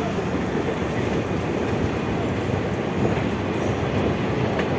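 A train running at a station platform: a steady, loud rumble and rattle.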